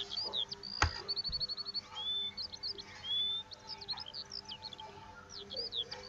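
Small birds chirping and twittering in the background: many short whistled notes and slides, with one quick trill of repeated notes just after a second in. A single sharp click comes just under a second in.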